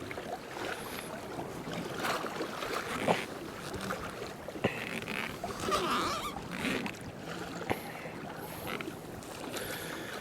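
Water sloshing and splashing against a kayak's hull, with a couple of light knocks on the boat.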